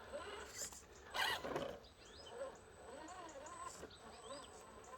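FTX Hi Rock RC rock crawler's electric motor and gearbox whining in short rising-and-falling pulses as it is throttled over the course, with a brief scuffing rustle about a second in.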